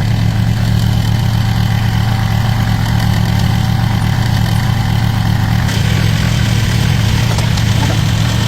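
Tractor engine idling with a steady, even drone.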